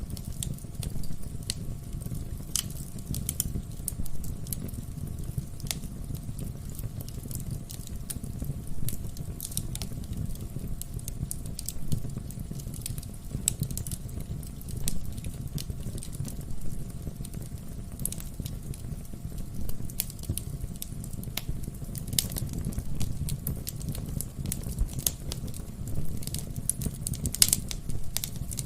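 Wood fire crackling in a fireplace: irregular sharp pops and snaps over a low, steady rumble of flame, with one of the louder pops near the end.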